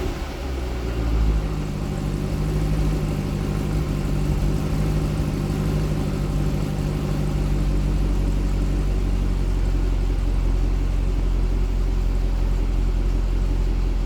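Holden VF Commodore SS V Redline's 6.2-litre LS3 pushrod V8 idling through its standard factory exhaust, dropping back to a steady idle in the first second and holding even after that.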